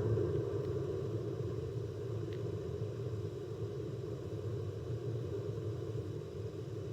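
A steady low rumble like a distant aircraft, slowly fading away.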